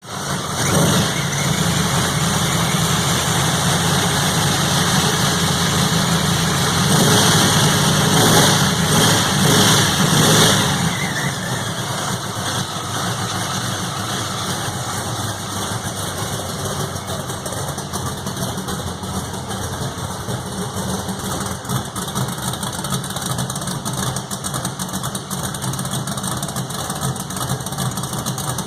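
A freshly rebuilt engine starting up and running, revved a few times about a third of the way in, then settling down to a steady idle.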